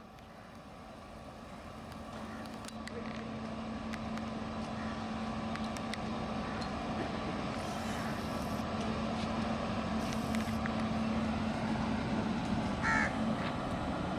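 An Indian Railways WAP7 electric locomotive approaching with its train: a steady hum and rumble that grows gradually louder. Crows caw over it.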